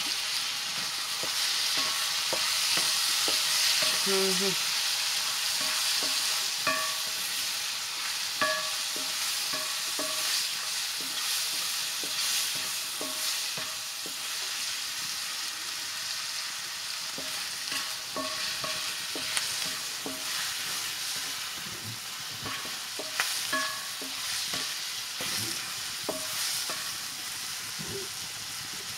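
Red wild mushrooms sizzling in an oiled metal wok over a wood fire, stirred with a wooden spatula that scrapes and knocks against the pan. The steady frying hiss is a little stronger in the first several seconds.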